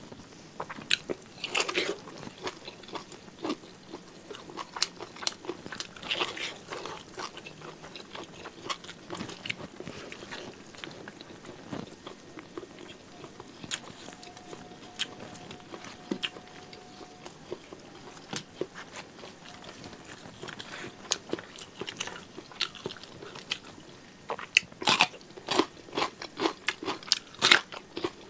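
Close-up mouth sounds of a person eating cooked beef tongue and rice by hand: chewing and smacking with small wet clicks. About three-quarters of the way through come louder crisp crunches as raw cucumber is bitten and chewed.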